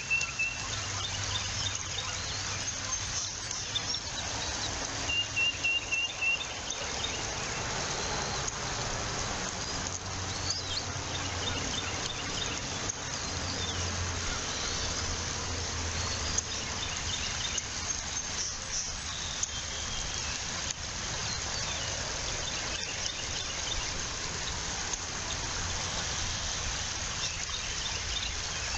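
Outdoor nest-cam ambience: a steady hiss of wind and open air, broken by short runs of high, rapid chirping bird calls near the start and again about five seconds in, with fainter chirps later.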